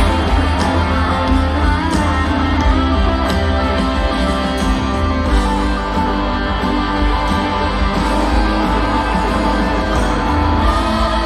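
A live rock band playing an instrumental passage: electric guitars sustain chords over a steady drum beat of roughly one and a half hits a second.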